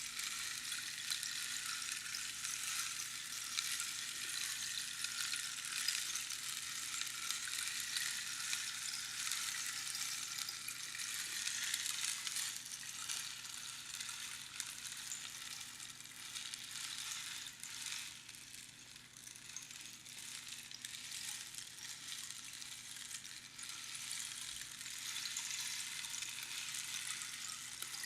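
Rainstick: pebbles trickling down past the pins inside the hollow cactus tube, a continuous rain-like patter. It thins out a little past halfway and swells again near the end, as the stick is turned for a fresh pour.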